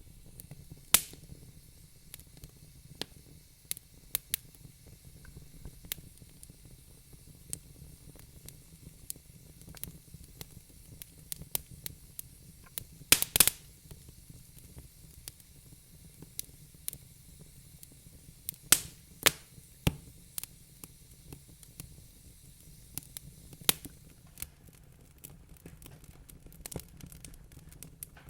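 Wood fire crackling in a fireplace: irregular sharp pops and snaps over a low steady rumble, with a quick cluster of louder pops about halfway through.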